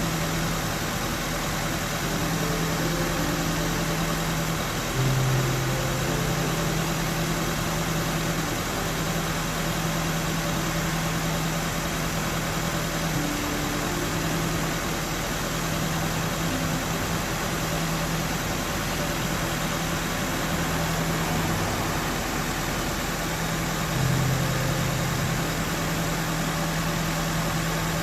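Nissan SR20DET turbo four-cylinder idling steadily, briefly louder twice. The engine has a blown head gasket: the combustion-leak test shows exhaust gas in the coolant.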